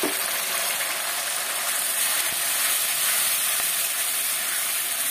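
Chilli paste, ground masala and onions sizzling steadily in hot oil in a kadai.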